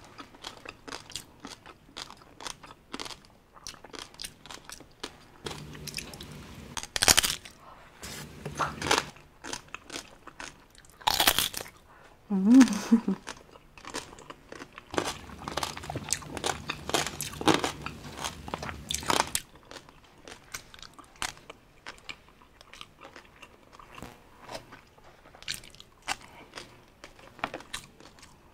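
Close-up biting and chewing of crispy roast-pig (lechon) skin: a steady run of sharp crunches, with a few louder bites now and then.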